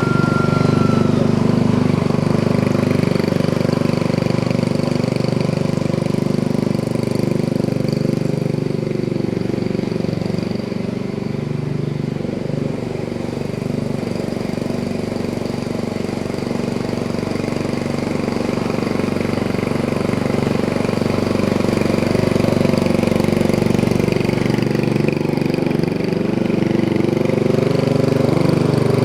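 Small Briggs & Stratton 3.5 HP single-cylinder four-stroke engine on a homemade tractor, running steadily, most likely under way. Its speed wavers up and down near the end.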